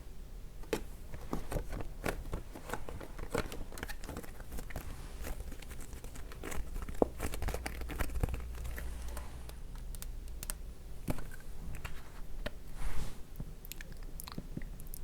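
Irregular crinkling, tapping and clicking of sunscreen packaging being handled, with one sharper click about halfway through and a louder cluster near the end.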